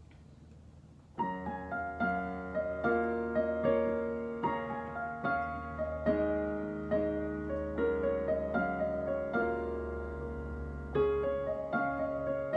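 Background music: a piano intro starts about a second in, playing a slow, even pattern of notes and chords.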